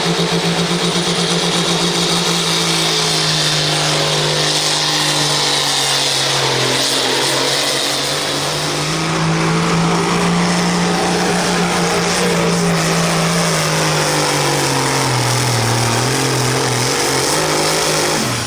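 Turbocharged diesel farm tractor of the 9000 lb turbo stock class pulling under full load, its engine running hard at a steady high pitch. Near the end the pitch sags as the load builds, then the sound drops away.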